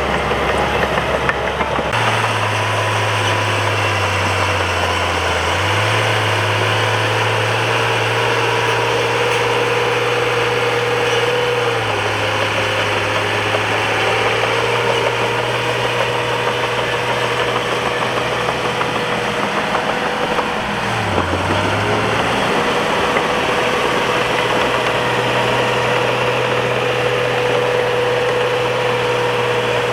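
Bulldozer's diesel engine running steadily, its note stepping up and down a few times and dipping briefly about two-thirds of the way through.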